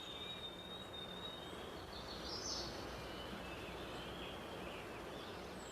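Faint woodland ambience: a thin, high steady tone at first, then a few short bird chirps about two and a half seconds in and faint calls later.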